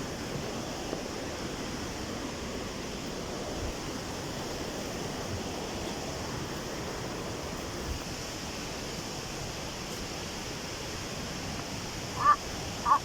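Steady rushing of a river and waterfalls, an even noise throughout. Near the end come two short, sharp, louder sounds about half a second apart.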